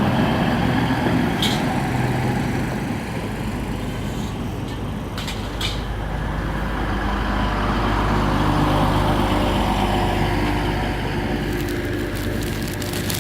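Diesel train engine running at the platform, swelling to its loudest about nine seconds in, with a few sharp clicks.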